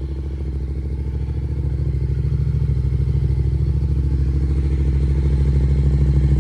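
Yamaha R7 with a Yoshimura full exhaust idling on a cold start, a steady, low pulsing exhaust note that grows gradually louder.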